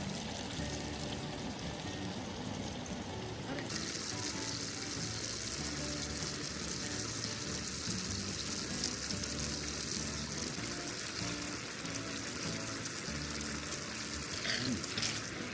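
Food sizzling in a hot pan. The sizzle starts suddenly about four seconds in as the food goes in, then holds steady over background music.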